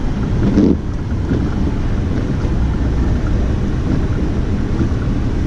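Steady low rumble of a vehicle under way, with wind buffeting the microphone and a brief louder surge about half a second in.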